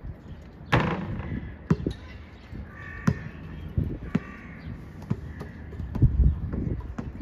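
A basketball bouncing on an outdoor court, several separate bounces, with wind rumbling on the microphone. A bird calls twice near the middle, about a second apart.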